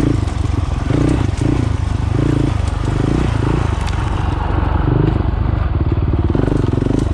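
Dual-sport Honda CRF450L's single-cylinder four-stroke engine running, its note coming and going as the throttle changes.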